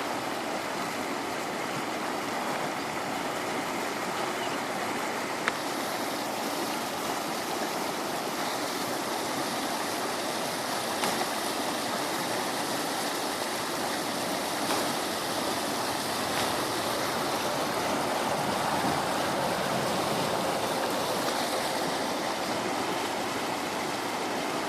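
Clear Creek in flash flood, swollen, muddy and full of debris, its water rushing steadily, with a few faint brief knocks.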